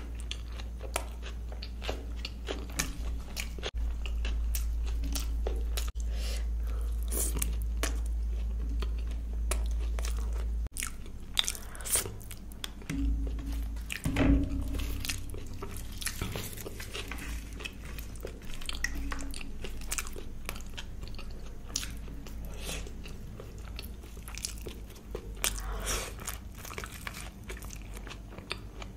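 Close-miked chewing and biting of a person eating luchi (small deep-fried puris) scooped with paneer curry: many sharp wet clicks and smacks of the mouth, over a low steady hum.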